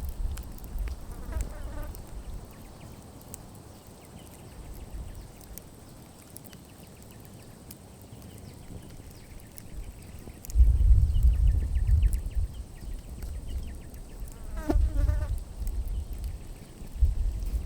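Campfire burning down with sparse, faint crackles, broken by bursts of low rumble about ten seconds in and again near the end. A short buzzing trill is heard twice, once near the start and once near the end.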